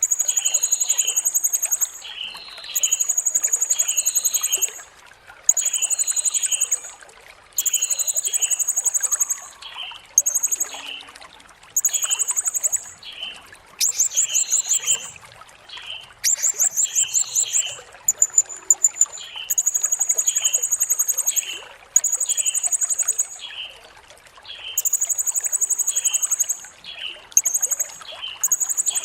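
Serindit (blue-crowned hanging parrot) singing: high, thin buzzy trills of a second or two each, repeated with short gaps, mixed with short chirps about twice a second, over a background of trickling water.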